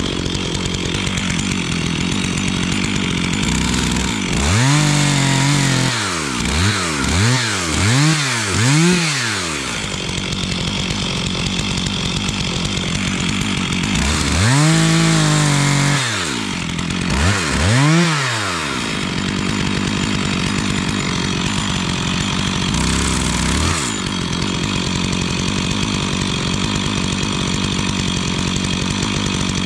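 Stihl chainsaw idling, with a run of quick throttle blips about five seconds in and a longer rev followed by two short blips about fifteen seconds in.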